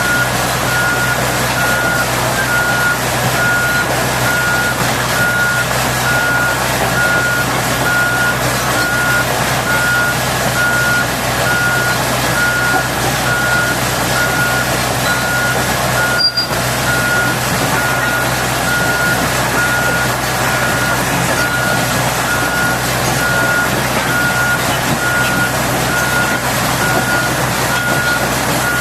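Heavy-equipment reversing alarm beeping steadily in evenly spaced single-tone beeps, over the steady hum of a diesel engine running.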